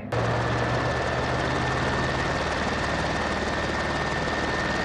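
Helicopter rotor and engine running steadily, a fast even rotor chop under a steady high whine. It starts abruptly just after a cut.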